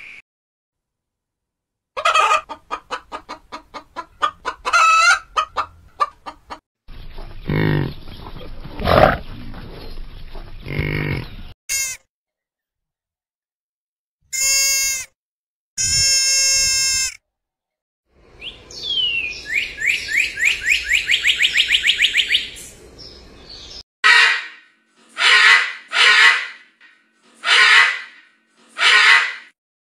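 A string of different animal calls, one after another with short silent gaps. A run of repeated calls comes first, then two drawn-out high deer calls. After them comes a fast rising series of calls, and five loud, harsh macaw squawks end it.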